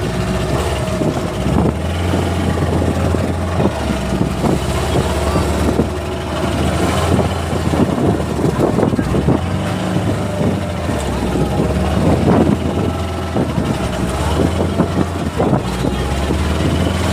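Boat engine running steadily, a constant low drone with a steady higher tone over it, mixed with irregular clatter and knocks.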